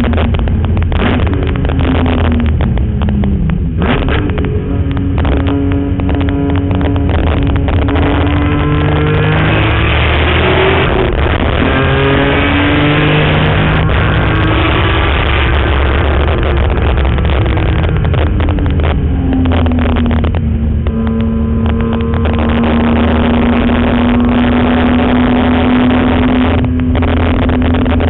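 BMW E46 M3's S54 straight-six on a hard track lap. The engine note falls in the first few seconds under braking and downshifts, climbs through the gears with shifts around ten and thirteen seconds in, drops again around twenty seconds, then holds a steady pitch, over heavy wind and road rumble.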